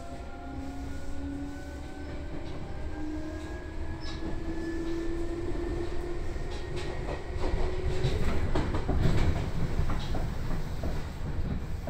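Seibu 2000 series electric train heard from inside the car as it gathers speed: the traction motors give a steady whine that rises slowly in pitch, over a low running rumble. From about seven seconds in, wheel clatter over the rails grows louder, peaking around nine seconds, as the whine fades.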